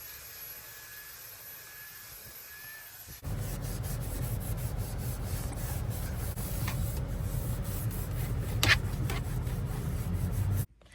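Rubbing and handling noises while the car interior is cleaned: a quieter stretch, then a hard cut about three seconds in to louder, low rumbling rubbing with a few brief clicks, which stops abruptly near the end.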